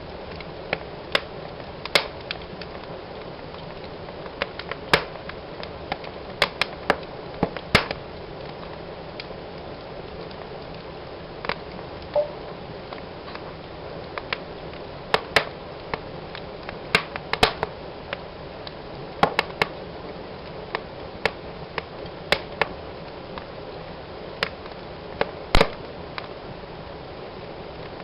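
Wood fire burning in a fireplace, crackling and popping at irregular moments over a steady hiss of flames, with one louder pop near the end.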